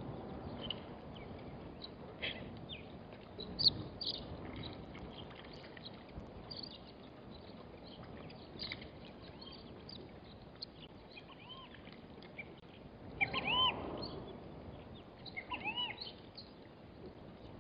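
Birds calling outdoors: scattered short, high chirps throughout, and a few louder arched calls about thirteen and sixteen seconds in, over steady wind noise on the microphone.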